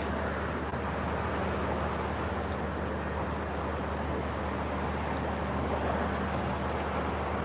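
A steady low mechanical hum under a constant rushing background noise, unchanging throughout.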